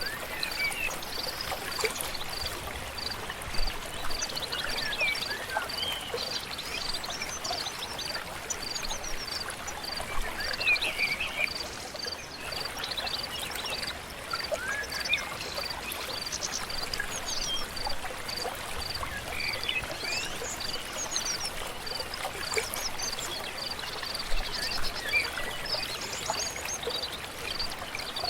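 Forest dawn ambience: a flowing stream with birds singing in scattered chirps and trills. Throughout, a short high call repeats evenly about twice a second.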